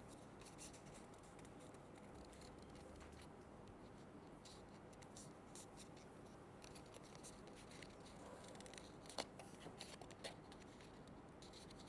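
Near silence with faint paper handling: a paper circle being folded along traced triangle lines, with a few soft creasing clicks and rustles in the last few seconds.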